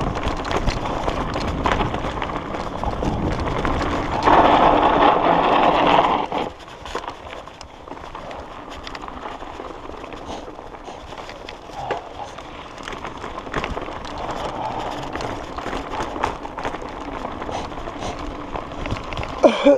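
Mountain bike riding a dirt trail, recorded by an action camera on the ride: tyre and wind noise with the bike rattling and clicking over bumps. Louder for the first six seconds, then quieter with scattered clicks.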